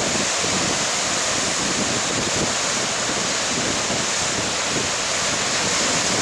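Heavy Lake Superior surf washing in against the shore, a steady rush of waves mixed with strong wind buffeting the microphone.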